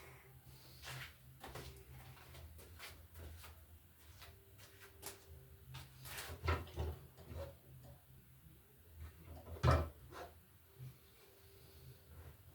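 Scattered clicks and knocks of hand tools and electrical cable being handled, with a cluster about six seconds in and the loudest knock near the end.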